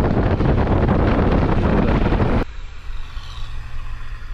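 Loud wind and vehicle noise on a riding camera's microphone. About two and a half seconds in it cuts off abruptly to a much quieter steady low engine hum.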